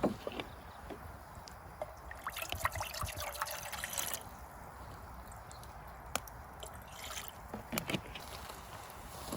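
Liquid trickling briefly, between about two and four seconds in, among scattered small clicks and knocks.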